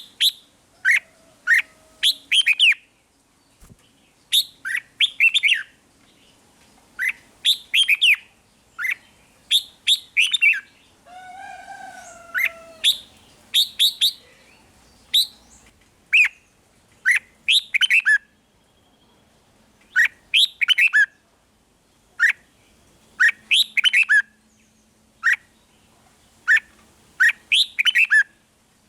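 Red-whiskered bulbul singing: short bright phrases of quick warbled notes, coming in clusters every second or two, with one longer, lower call about eleven seconds in.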